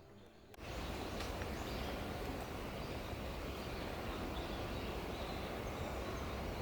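Steady outdoor background noise, a dense even rush heaviest in the low end, coming in suddenly about half a second in, with a few faint short bird calls above it.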